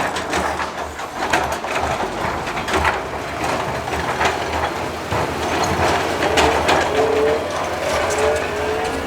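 Heavy diesel earthmoving machinery at work: an engine running steadily under many sharp clanks and the clatter of rock and metal, with a whine that rises and falls several times.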